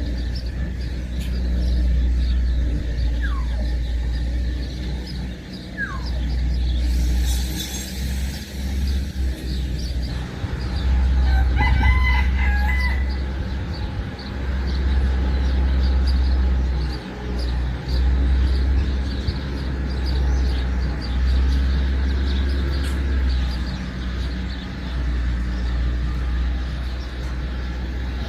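A rooster crows once, about twelve seconds in, with a few short bird chirps earlier on. A loud, steady low rumble runs under everything.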